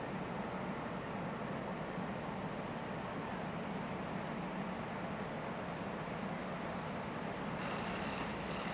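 Steady city street ambience: a low, even rumble of traffic and engines, turning a little brighter and hissier near the end.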